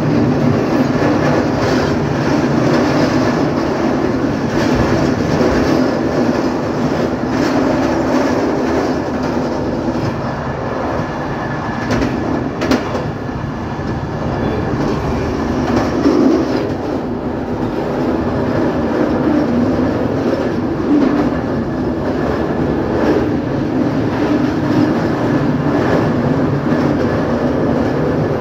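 Train running along the track at speed: a steady rumble of wheels on rails, with scattered clicks as the wheels pass over rail joints and a sharper pair of clicks about halfway through.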